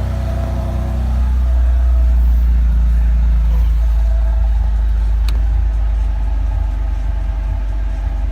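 BMW M4's twin-turbo straight-six running at cold-start idle, its note rising about a second in and easing a little later. A short click about five seconds in.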